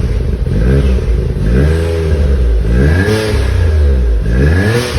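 Daihatsu Copen LA400K's 660 cc turbocharged three-cylinder engine, just started, revved up and dropping back again about four times, after a WAKO'S engine conditioner treatment to clean the combustion chambers.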